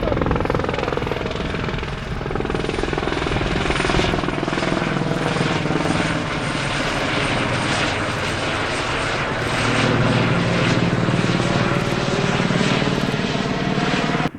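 Large jet airliner's engines running at high power: a loud, steady roar with tonal whine, cutting off abruptly at the end.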